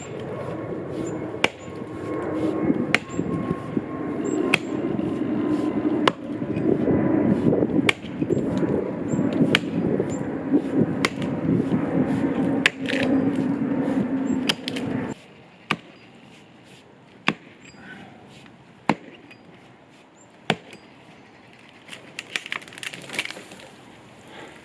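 Axe chopping into the trunk of a dead tree, one blow about every second and a half, over a steady loud background noise that cuts off suddenly about 15 seconds in. Near the end there is a short flurry of cracking and rustling.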